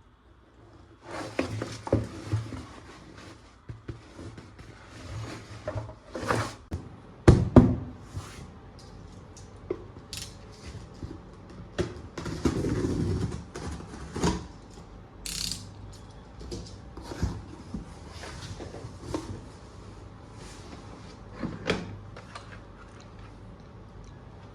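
Plastic toy gun parts being handled: irregular clicks, clacks and knocks with some rustling, a few louder knocks about seven seconds in.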